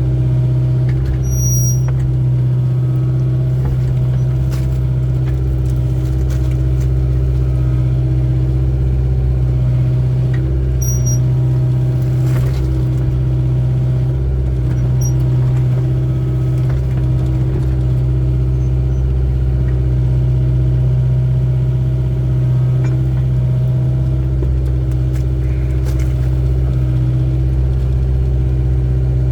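Excavator's diesel engine running steadily, with a couple of short high squeaks from the machine.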